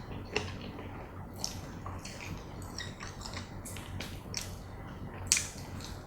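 Close-up eating sounds of fried chicken with cheese sauce: irregular wet smacks and crisp clicks of biting and chewing, the sharpest a little after five seconds.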